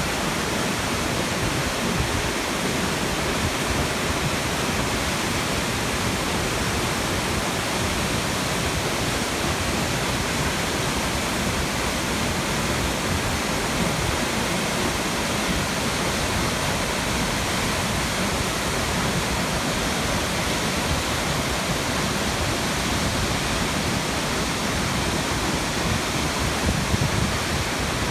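Seerenbach waterfall: a steady, unbroken rush of falling water.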